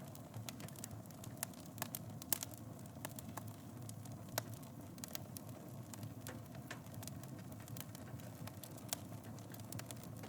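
Wood fire burning in a fireplace: a low steady rumble of flames with irregular crackles and sharp pops, the loudest about two seconds in and again about four seconds in.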